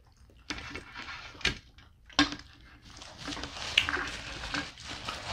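Close-miked chewing of pizza, a wet, crackly mouth noise, with two sharp clicks about one and a half and two seconds in.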